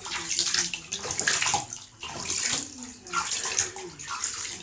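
Galah (pink-breasted cockatoo) bathing, splashing in water in repeated bursts about every half second to a second as it flutters its wings.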